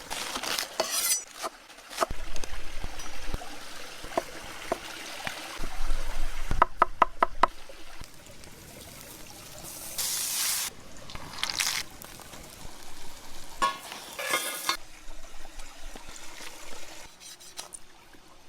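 Food-preparation sounds: liquid pouring and splashing in short bursts, with scattered knocks and clicks of handled utensils or cookware.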